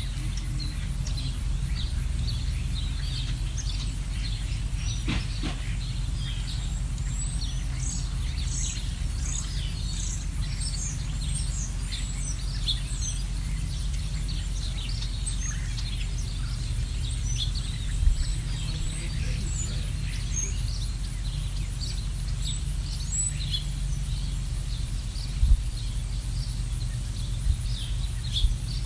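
Several small birds chirping in short, rapid calls over a steady low rumble, with a few brief low thumps in the second half.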